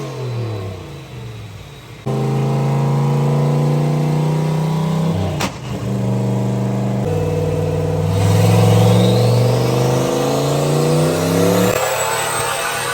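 Turbocharged LS V8 with a big single turbo running on a chassis dyno: it falls back, then comes in loud and steady about two seconds in and climbs in revs through a pull, with a high whistle rising above it, before dropping off near the end.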